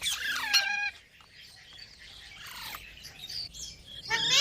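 Pet green parrot calling: a loud, screechy call in the first second, fainter chattering through the middle, and another loud call starting near the end.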